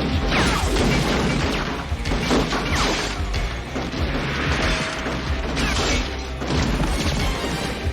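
Action-film chase soundtrack: a loud, driving music score mixed with repeated crashes, smashes and booms of impacts and debris.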